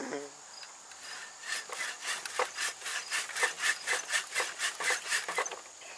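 Hand saw cutting wood in quick, even rasping strokes, about four or five a second. The sawing starts about a second and a half in and stops shortly before the end.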